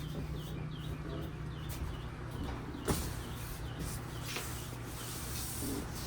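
Steady low hum of the camper's running air conditioner, with one sharp knock about three seconds in and a few faint high chirps in the first two seconds.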